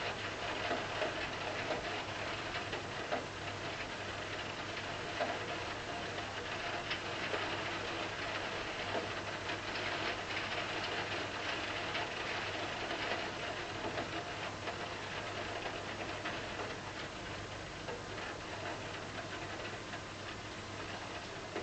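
Steady rain falling, a dense patter of drops with many small ticks.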